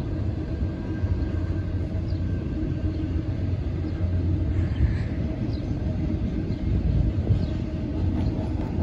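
Intermodal freight train rolling past, a steady low rumble of its wheels and cars on the rails.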